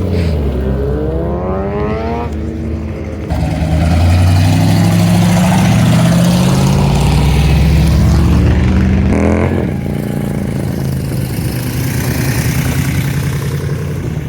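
Vehicle engines accelerating past, with revs rising early on. A louder engine comes in about three seconds in and runs strongly for several seconds, finishing with another quick rise in revs before easing to a steadier drone.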